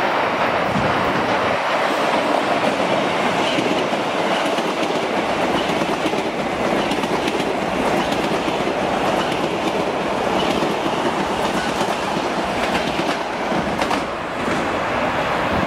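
Kawasaki M8 electric multiple-unit commuter train running past the platform: a steady rush of wheel and rail noise, with many quick clicks as the wheels cross rail joints. There is a brief dip in level near the end.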